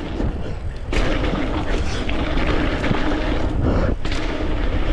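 Wind buffeting the camera microphone as a mountain bike rolls down a dirt trail: a steady rushing noise with a heavy low rumble, louder from about a second in.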